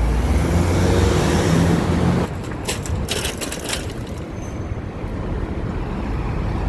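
Motor vehicle engine running close by with a loud low hum, cutting off suddenly about two seconds in. A cluster of sharp clicks and rattles follows, then steady traffic noise.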